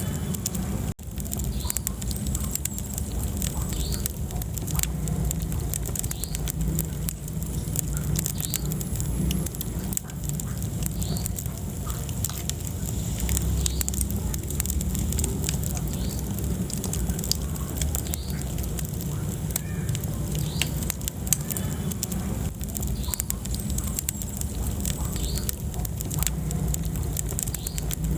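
Wood fire burning in a fireplace: a steady low rumble of flames with frequent sharp crackles and pops from the burning logs. The sound cuts out for an instant about a second in.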